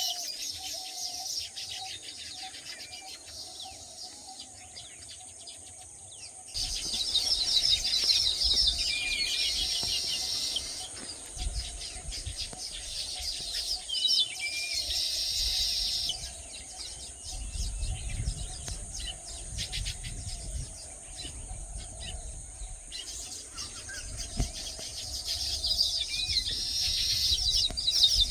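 Small birds chirping and trilling in quick, repeated calls, over a steady high-pitched hum. A low rumble comes in about a quarter of the way through.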